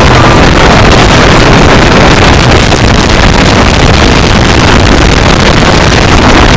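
Car engine running hard, with wind and road noise, heard from inside the cabin while driving a racetrack at speed. It is loud and steady, close to overloading the recording.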